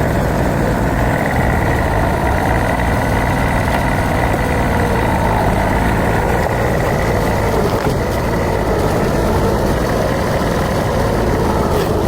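Old truck's engine running steadily, with a faint high whine over it.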